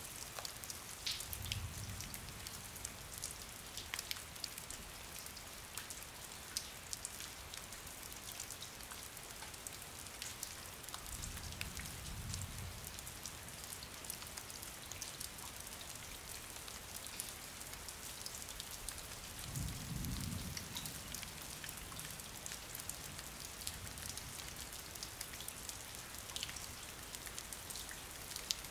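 Steady rain falling on a hard surface, with many separate drops ticking close by. Three brief low rumbles come several seconds apart.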